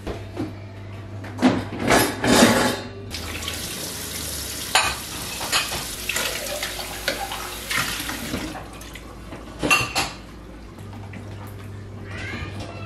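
Dishes and cutlery clattering in a kitchen sink, with the tap running for a few seconds in the middle.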